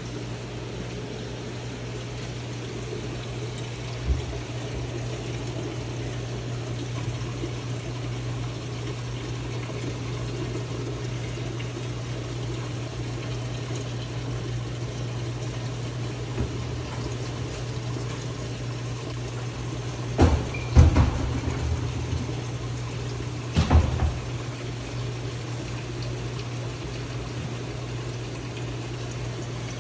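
Aquarium tank water circulating with a pump humming steadily underneath. A few sharp thumps about two-thirds of the way through are the loudest moments.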